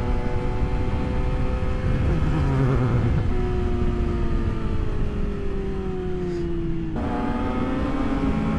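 Sport motorcycle engines running on the move, with wind and road rush. The engine note sinks slowly for several seconds, then steps up sharply about seven seconds in.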